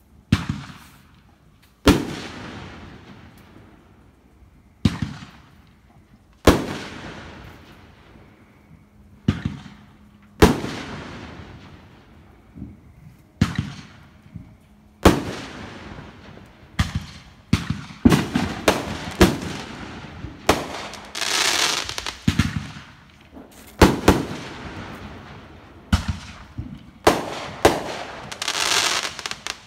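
Aerial fireworks going off: sharp bangs, each trailing off in an echoing rumble, a few seconds apart at first and then coming quicker in the last third. Twice near the end a longer hissing crackle runs for a second or so between the bangs.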